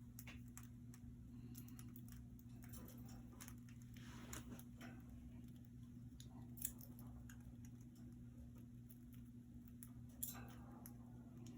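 Faint, scattered small clicks and taps from budgies in their cage, their beaks and feet on perches, bars and seed, with two sharper clicks about six and ten seconds in, over a steady low hum.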